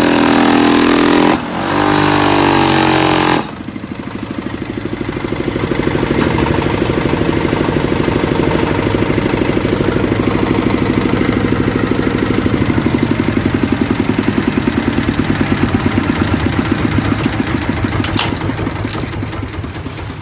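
Diesel engine driving a concrete block machine. It runs loud with a strong steady drone for about three seconds, drops off suddenly, then settles into a rapid, even chugging that fades near the end.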